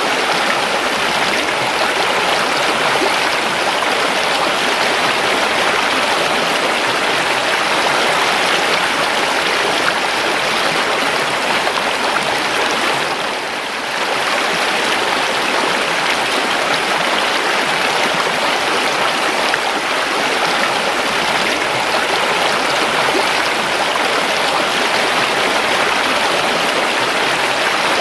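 River water flowing steadily, an even rushing of running water that briefly softens about halfway through.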